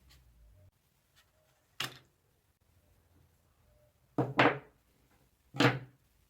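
Three knocks of things being handled and set down on a work surface: a light one about two seconds in, then two louder, slightly longer ones about a second and a half apart near the end.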